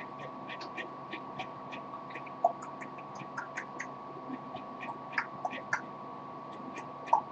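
A pet parrot making quiet beak and tongue clicks, several a second, with a few short soft chirps. The loudest chirps come near the end.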